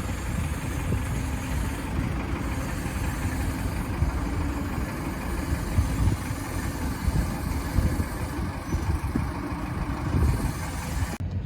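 An engine idling steadily, with a dense low rumble; the sound cuts off abruptly near the end.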